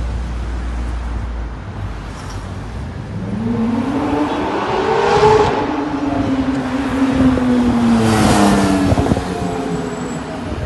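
A motor vehicle's engine running past on a city street, its note rising over a few seconds and then falling away, over wind and traffic rumble.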